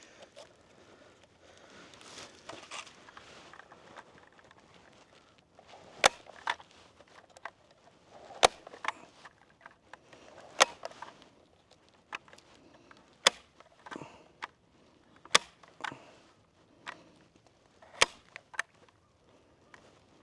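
Sharp, snapping clicks about every two seconds, many followed by a softer second click, as a screen is fastened over a beehive's entrance, after a few seconds of faint rustling.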